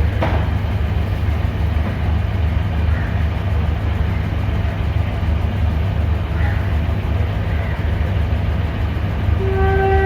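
Class M6 diesel locomotive engine idling with a steady low rumble. Near the end its multi-tone air horn starts sounding and holds.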